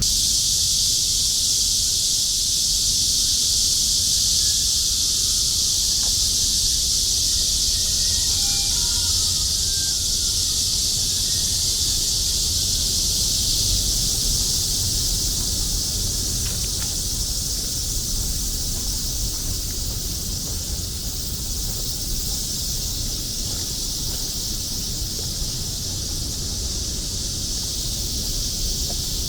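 Chorus of cicadas making a steady, high-pitched buzz, over a low background rumble.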